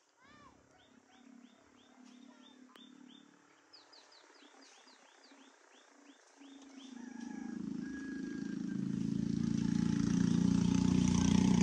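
A bird calling, a quick run of repeated chirps about four a second, through the first half. Then a low rumble rises and grows loud over the last few seconds.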